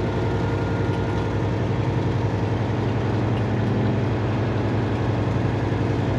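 Semi-truck's diesel engine running steadily at low revs, a low even rumble with no revving.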